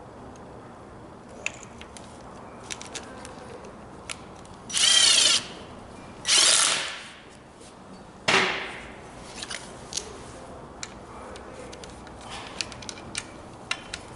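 Handheld power tool run in three short bursts of about a second or less, with light clicks of tools being handled in between.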